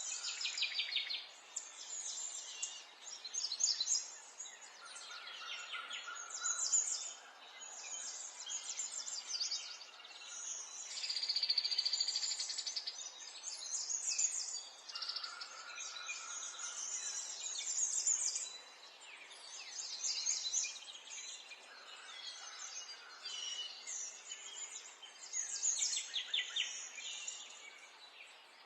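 Several songbirds singing and chirping over one another: rapid trills, short high chirps and a longer buzzy trill about eleven seconds in, over a faint steady outdoor hiss.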